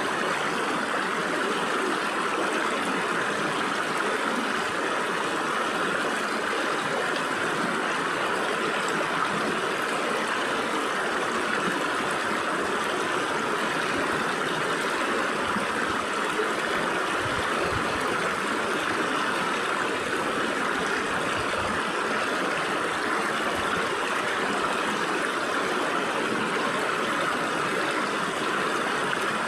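Stream water running and gurgling steadily through gaps between rocks, an even rushing splash with no breaks.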